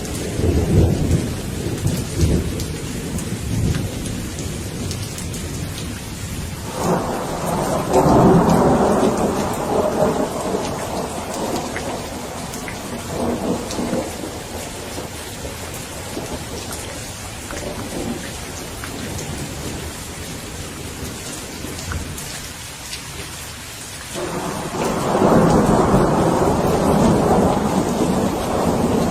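Steady rain falling, with thunder rolling several times: loudest about seven seconds in and again near the end.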